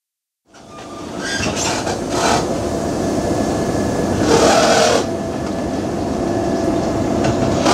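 Passenger train coaches running slowly past along a station platform: a steady rumble and rush of wheels on rail, with a faint steady whine and several louder swells as the coaches go by. The sound fades in from silence about half a second in.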